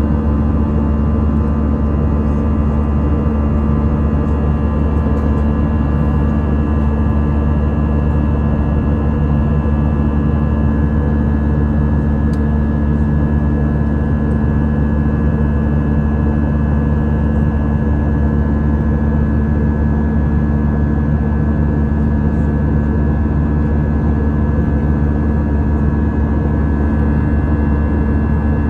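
Airbus A319 airliner's jet engines in flight, a loud, unchanging drone with a deep hum and a few steady tones, as heard from inside the cabin.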